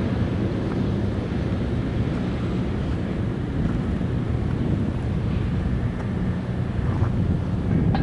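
Diesel locomotive engine running steadily, a low, even drone.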